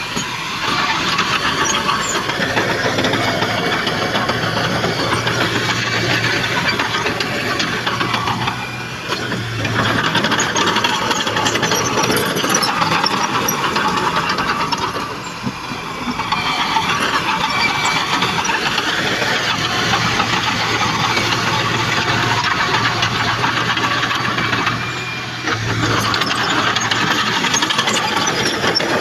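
Heavy earthmoving machinery running: a continuous clattering engine noise over a steady low drone, easing off briefly three times.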